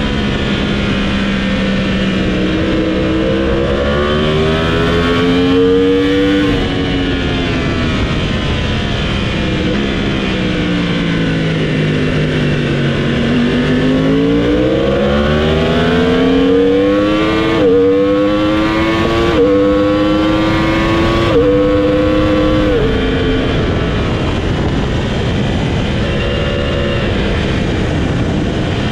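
Motorcycle engine at track speed, heard from on board over steady wind rush. The revs climb, drop sharply, and fall away for several seconds under braking. They then climb again through three quick upshifts about two seconds apart and ease off near the end.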